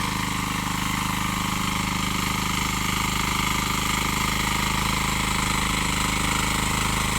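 A power tiller's 7 hp single-cylinder diesel engine running steadily with an even knocking beat.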